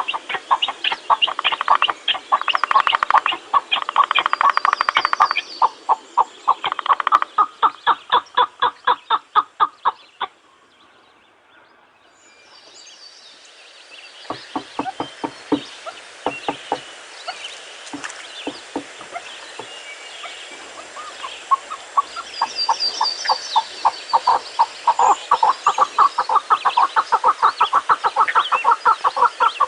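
Long runs of rapid, clucking calls from fowl-like birds, with higher chirping bird notes over them. The calls break off about ten seconds in and build up again after a short pause.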